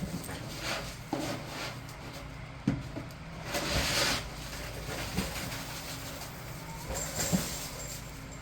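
Scattered light knocks and a brief rustle, as of small things being bumped and handled, over a steady low hum of room noise.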